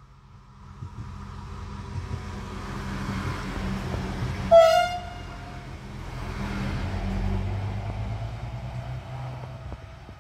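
A Ferrovie del Sud Est diesel multiple unit approaching and passing, its engine and wheels rumbling louder as it nears, with one short horn blast about four and a half seconds in. The rumble fades as the train pulls away near the end.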